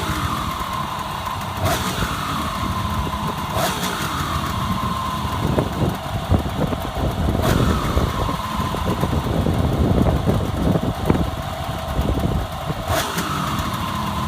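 Kawasaki 350SS two-stroke triple idling on its stock mufflers during a cold-weather warm-up, running more unevenly and a little louder for a few seconds in the middle. A few sharp ticks come through, each followed by a short falling whine.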